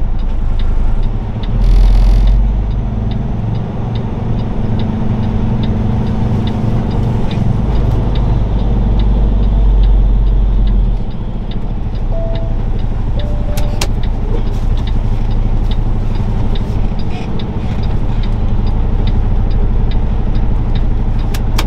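Semi-truck's diesel engine heard from inside the cab while the truck makes a slow left turn. The engine swells louder twice under throttle, and the turn signal ticks steadily.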